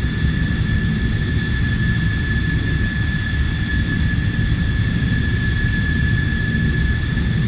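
Airplane jet engine running steadily: a low rumble with a high whine held at one pitch.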